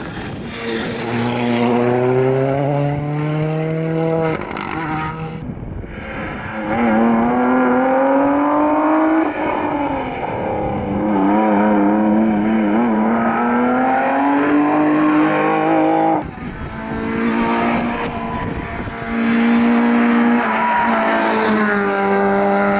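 Rally car engine accelerating hard up the stage, its pitch climbing and dropping back at each gear change, several times over.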